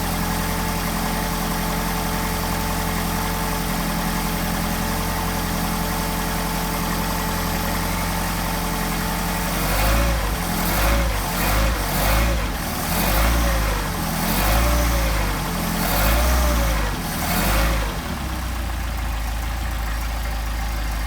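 Mercedes-Benz 190SL's four-cylinder engine on twin Solex carburetors, running at a steady idle soon after a cold start. About ten seconds in, its revs rise and fall about seven times in quick swells, then it settles back to a steady idle.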